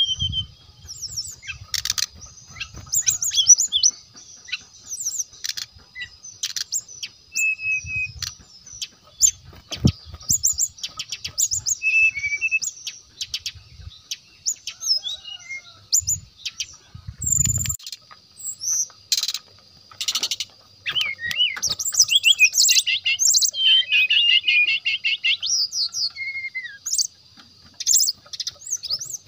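Brown-chested jungle flycatcher singing: quick, varied phrases of high chirps, slurred whistles and trills follow one another without a break. Sharp clicks are scattered through the song.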